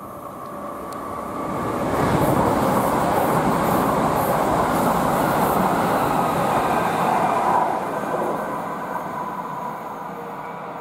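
A passing train: rushing wheel and track noise that builds over the first two seconds, holds loud for about five seconds, then fades away.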